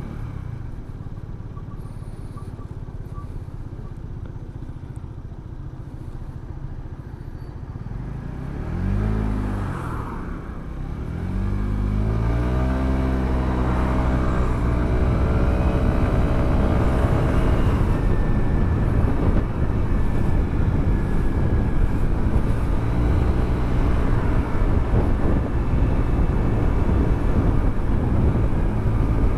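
Motorcycle engine heard from the rider's position: a steady low rumble, a brief rev about nine seconds in, then hard acceleration from about eleven seconds, the engine note climbing for several seconds before settling into a louder steady run with wind noise.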